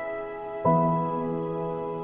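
Background music: slow, soft piano-like chords, a new chord struck about two-thirds of a second in and left to ring.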